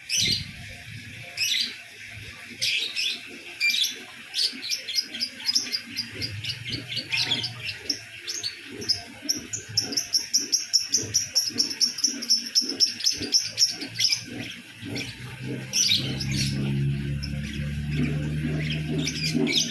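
A lovebird chirping in sharp, high notes, breaking into a long, fast run of chirps about halfway through. A low steady hum comes in under it near the end.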